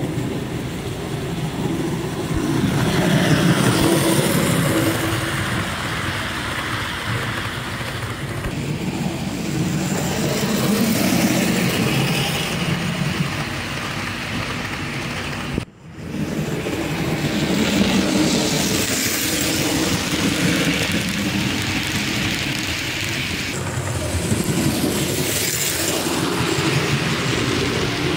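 HO scale model train of a Daylight 4-8-4 Northern steam locomotive running on its track, a steady rumble that swells and fades as it passes. The sound drops out sharply for a moment about halfway through, then resumes.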